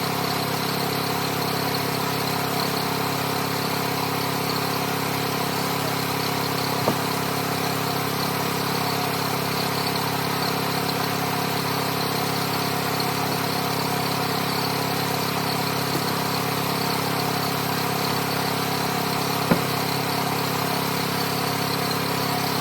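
Homemade sawmill's engine running steadily as the mill cuts through a big log, with two brief knocks, one about seven seconds in and one near the end.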